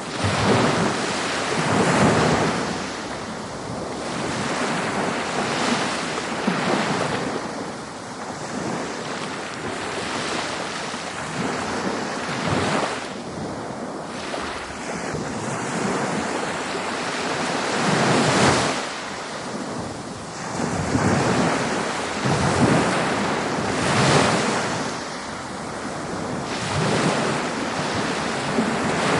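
Ocean surf breaking on a beach, wave after wave every few seconds, each swelling and washing back, over a steady background wash.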